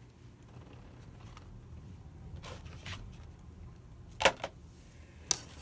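Objects being handled on a work table: a few soft taps, then one sharp click about four seconds in, over a faint low hum.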